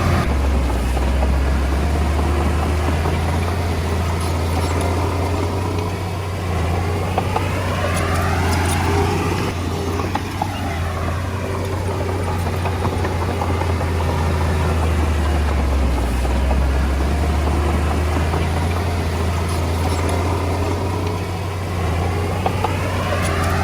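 Komatsu D20A bulldozer's diesel engine running steadily and loud, with a few light clanks from the machine.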